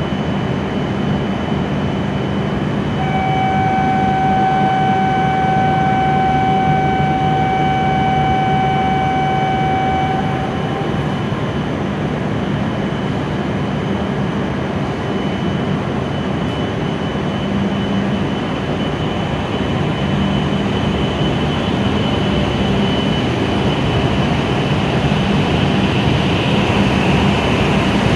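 E7-series shinkansen standing at the platform with a steady low hum from its onboard equipment. A steady electronic tone sounds for about seven seconds from about three seconds in. Near the end the noise grows louder as the train starts to pull out.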